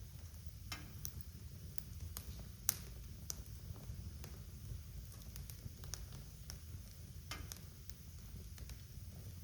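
Wood fire burning in a fireplace: a steady low rumble of flames with irregular sharp crackles and pops, one louder pop about two and a half seconds in.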